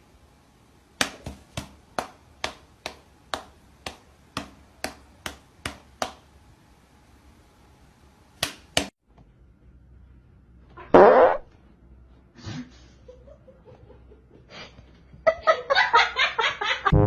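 A run of sharp clicks, about three a second, then two more, followed by a loud, short, pitched fart-like noise. Near the end a rapid series of brassy tones starts.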